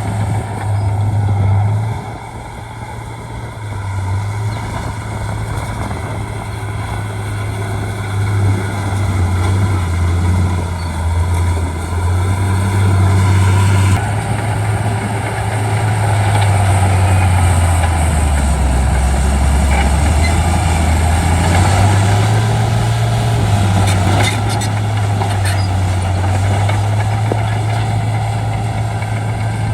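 Bulldozer's diesel engine running under work, its low note rising and falling. The note sags to its lowest a little past the middle, then picks back up.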